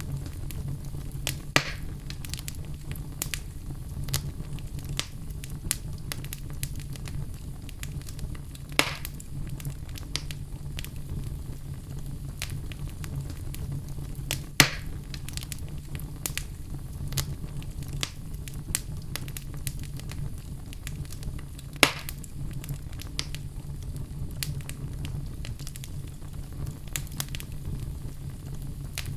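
Fire crackling in a fireplace: frequent small crackles over a steady low rumble, with four sharper pops spread through, the loudest about halfway.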